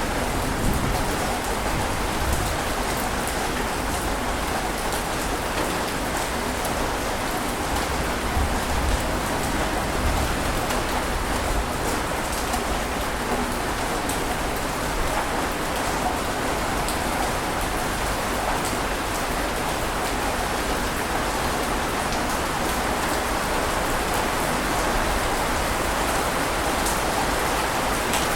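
Ocean waves on a beach: a steady, even rush of surf with no distinct single crash standing out.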